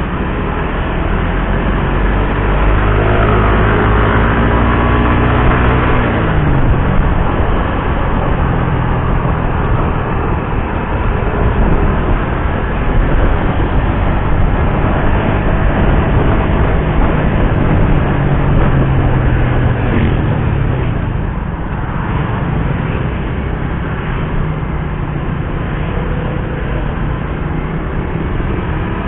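Suzuki GSX-R150's single-cylinder engine pulling under way. Its pitch climbs as it accelerates and drops suddenly at each upshift, twice, over a steady rush of wind and road noise.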